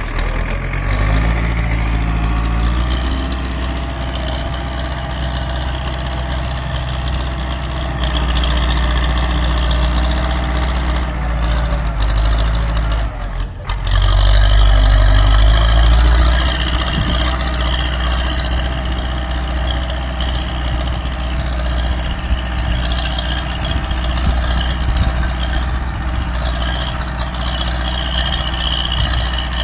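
Belarus MTZ-82 tractor's four-cylinder diesel engine running steadily under load while plowing. About halfway through it dips briefly, then runs louder for a couple of seconds before settling back.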